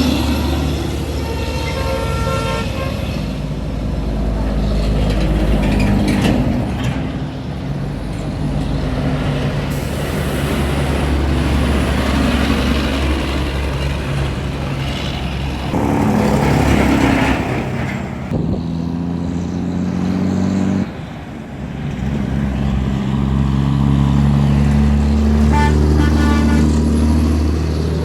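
Heavy trucks' diesel engines rumbling past on a highway, swelling and fading as each goes by, with horn toots near the start and again near the end.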